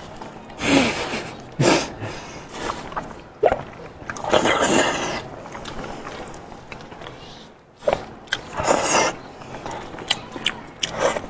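Close-miked eating of seafood: noisy mouth and chewing sounds in three loud bursts a few seconds apart, with small clicks in between.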